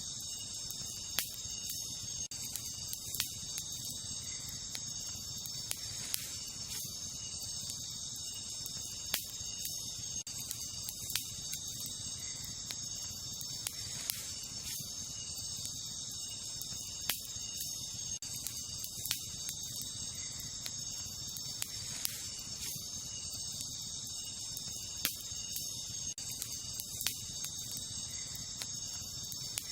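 Wood campfire crackling, with sharp pops every second or two, over a steady high chirring of crickets and other night insects.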